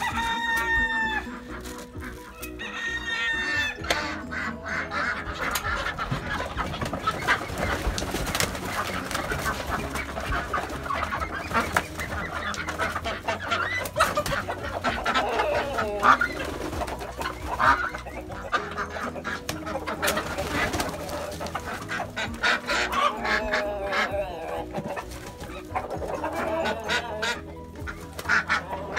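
A flock of chickens and a rooster clucking and squawking, with wings flapping as birds flutter down from the coop.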